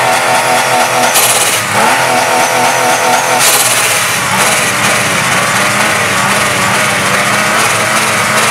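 Turbocharged car engine running and being revved, its pitch rising and falling a few times, with two short bursts of hiss about one and three and a half seconds in.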